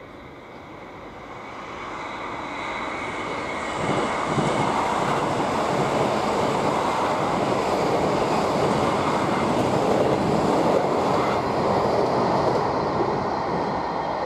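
South Western Railway passenger train passing close by on the tracks, its rumble swelling over the first four seconds as it approaches, holding steady, then easing a little near the end as it moves away.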